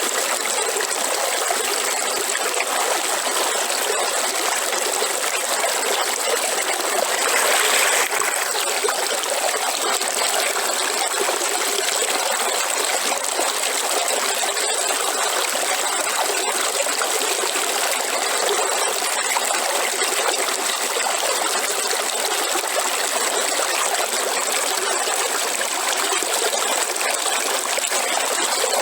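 River water running over rocks in a steady rushing burble, briefly louder about seven seconds in.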